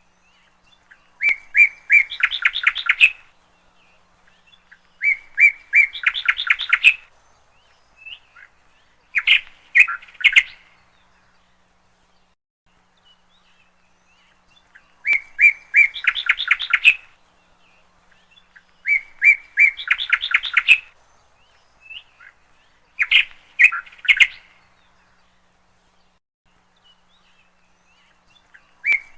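Bird song: a short, fast, high-pitched trilled phrase repeated six times with pauses of a few seconds between phrases.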